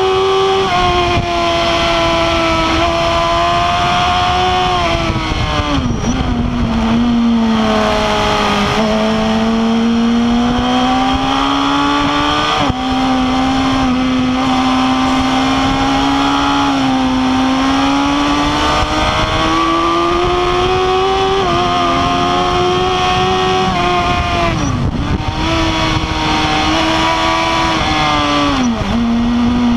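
Suzuki GSX-R 1000 K8's inline-four engine running at high revs under hard acceleration, heard onboard with a steady rush of wind. The pitch climbs steadily, then drops sharply several times as the bike brakes for corners, and climbs again each time.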